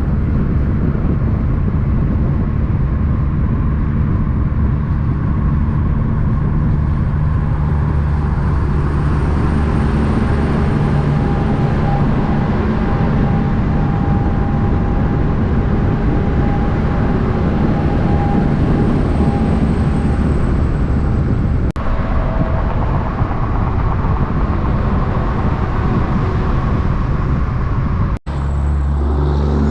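Semi truck's diesel engine running at a steady pitch. The sound breaks off abruptly twice, about 22 and 28 seconds in.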